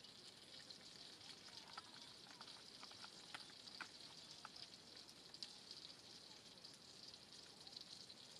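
Faint steady hiss of light rain falling, with a few small clicks from handling gear about two to four seconds in.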